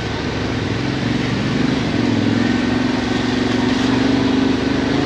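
Adventure motorcycle engine running at steady, fairly low revs, its pitch holding nearly level with a slight rise a couple of seconds in.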